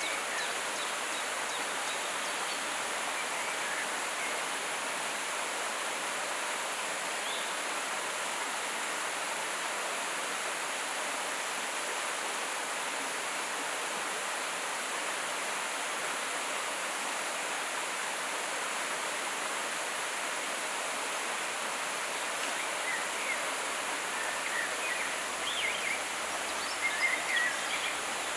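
Steady rush of flowing river water, with a few faint high bird chirps near the end.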